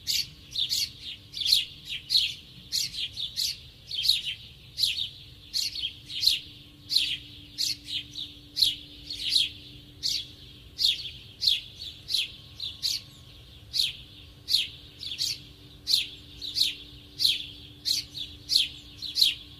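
A small bird chirping over and over, about two short, high, quickly falling chirps a second, some coming in pairs.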